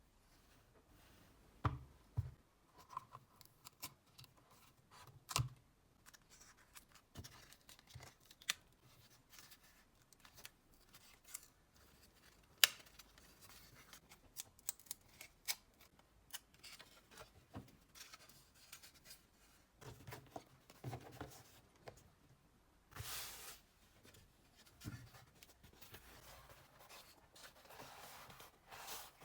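Faint, irregular handling noises from hand work on small parts: scattered clicks and taps, with a couple of short scraping, rustling stretches after about twenty seconds.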